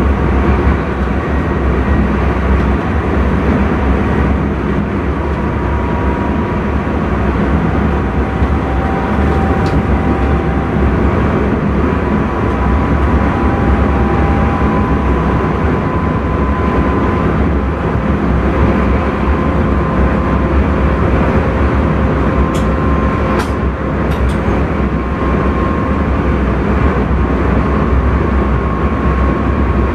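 Steady running noise of an intercity train heard from inside the driver's cab, with faint whining tones that drift slightly in pitch. Three sharp clicks come a little past two-thirds of the way through.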